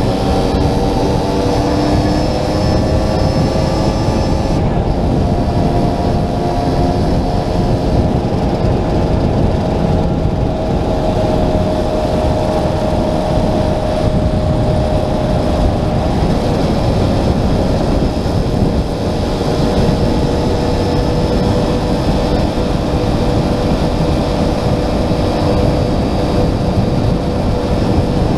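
Small motorcycle or moped engine running steadily at cruising speed, its note drifting slightly, under heavy wind rumble on a helmet-mounted camera.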